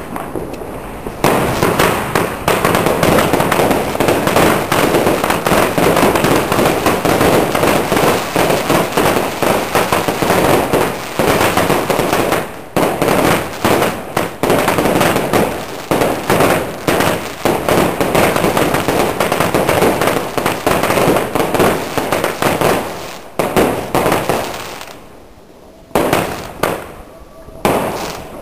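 Weco Alligator fan-shaped consumer firework battery firing: a loud, dense, unbroken run of bangs and crackles that starts about a second in, dies down around the last few seconds and ends with a few final bangs.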